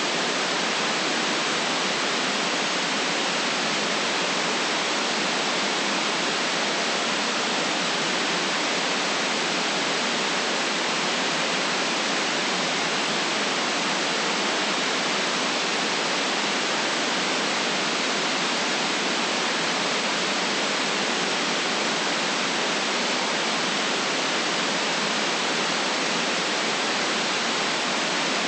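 Steady synthetic white noise, an even hiss cut off below about 150 Hz and above about 8 kHz, unchanging throughout.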